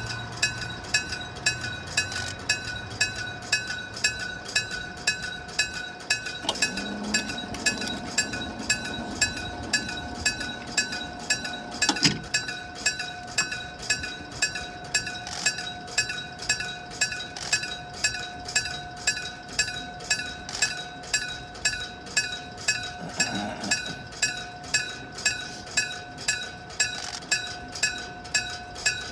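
Electric-bell (denshō-type) railway level-crossing bell ringing steadily at about two strokes a second, each stroke a bright metallic clang, with a single sharp knock about twelve seconds in.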